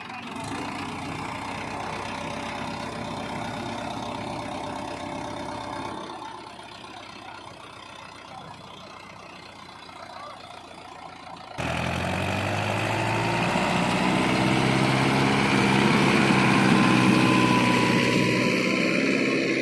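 Mahindra Yuvo 575 DI tractor's four-cylinder diesel engine running under heavy load. Past the halfway point the sound cuts abruptly to a louder, closer engine note that slowly rises in pitch as the engine works harder.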